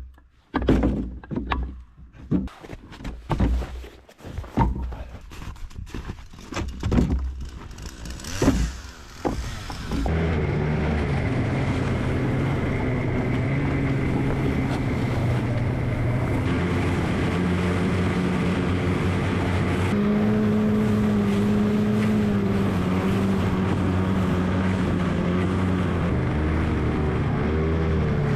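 Irregular knocks and clatter, then from about ten seconds in a small engine runs steadily at an even pitch, shifting slightly a couple of times.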